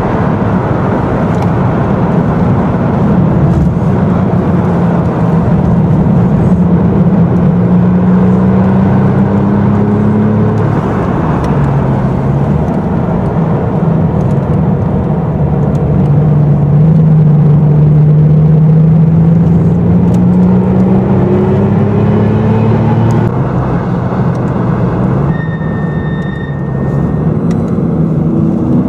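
Porsche 996 Carrera 2's flat-six engine under load, heard from inside the cabin on track: the revs climb steadily, fall back about ten seconds in, climb again and ease off about twenty-three seconds in. A brief high squeal near the end.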